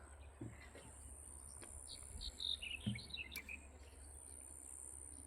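Insects trilling steadily at a high pitch, with a quick run of high bird chirps in the middle and a couple of faint knocks.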